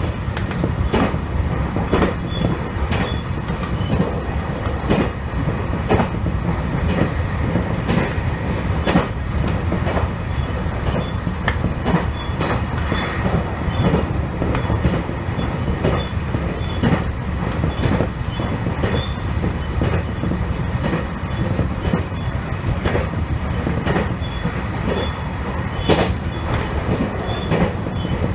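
Electric commuter train running along the line: a steady rumble with regular clickety-clack of the wheels over rail joints, about once a second, heard from just behind the driver's cab.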